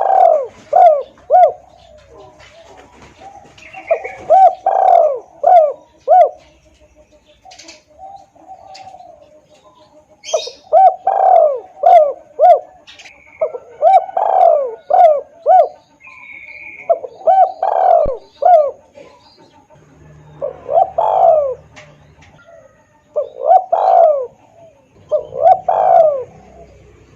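Spotted dove (tekukur) cooing loudly and clearly in repeated phrases of several short arched notes, one phrase every two to three seconds. It is a lure call for drawing in wild doves.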